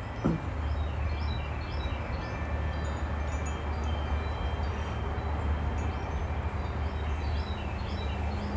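Wind chimes ringing in gusty wind, several overlapping metallic tones sounding and fading, over a steady low rumble of wind on the microphone.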